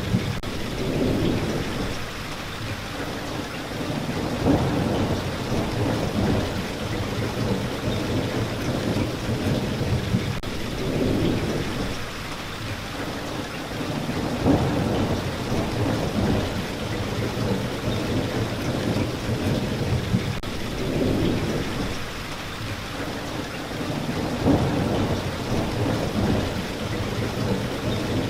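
Steady heavy rain, with low rolling rumbles of thunder swelling and fading every few seconds.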